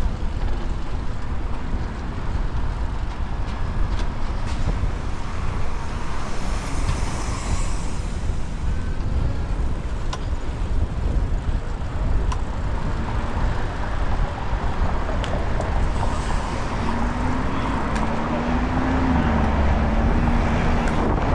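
Steady wind noise on a bike-mounted action camera's microphone while riding through city traffic, with road vehicles running alongside. A low wavering tone comes in about seventeen seconds in.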